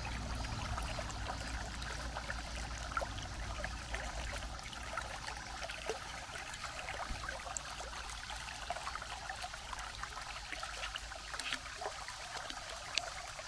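Creek water running and trickling steadily, with many small splashes; it cuts off suddenly at the end.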